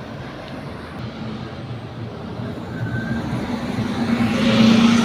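A bus engine running with a steady low hum, growing louder as it approaches and loudest near the end.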